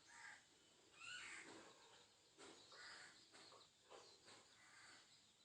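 Near silence with faint, short bird calls a few times, one falling in pitch.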